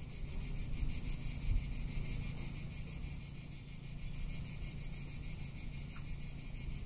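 Cicadas singing: a steady, high, rapidly pulsing buzz, with low wind rumble on the microphone underneath.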